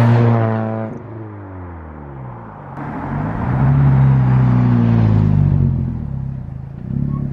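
Straight-piped exhaust of a four-cylinder Jeep Compass, its muffler removed, as the engine revs rise and fall. It starts loud, the revs drop off about a second in, climb again around three seconds, ease back near six and pick up once more near the end.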